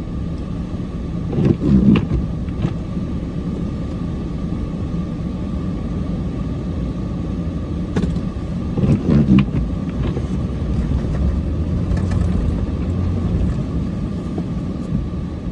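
Plow truck's engine running steadily while plowing snow, a low rumble that swells louder twice, about 2 seconds in and again about 9 seconds in, over a faint steady whine.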